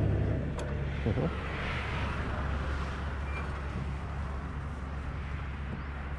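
A motor vehicle passes on the road, its noise swelling and fading about two seconds in, over a steady low engine hum.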